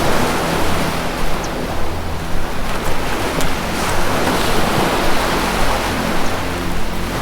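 Ocean surf washing steadily, under soft low sustained tones of ambient music that fade in and out. A few faint, brief high chirps sit on top.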